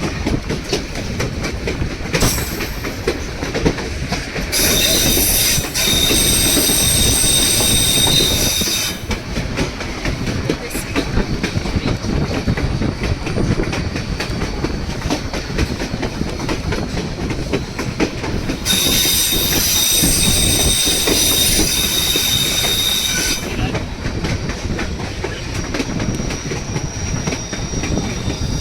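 White Pass & Yukon Route narrow-gauge train rolling on the rails with a steady rumble and clickety-clack. Its wheels squeal high-pitched twice: for about four seconds starting about five seconds in, and for about five seconds starting near the middle.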